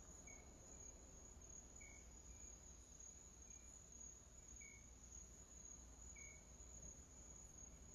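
Near silence: a faint, steady, high-pitched trill with a short chirp about every second and a half, over a low hum.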